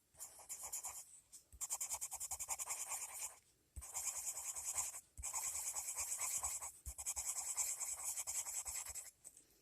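Colored pencil being scribbled rapidly back and forth on paper, shading in an area, in several runs of quick strokes with brief pauses between them.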